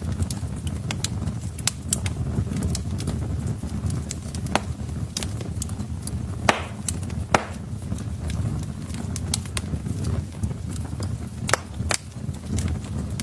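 Wood fire burning in a fireplace: a steady low rumble with frequent sharp crackles and pops, a couple of louder snaps about halfway through and two more near the end.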